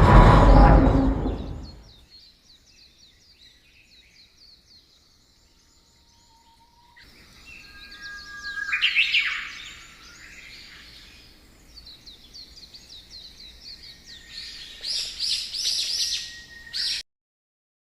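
Songbirds chirping and calling in a row of quick repeated notes, with louder bursts of chirping twice later on. It opens with a loud rush of noise that fades over about two seconds, and everything cuts off abruptly near the end.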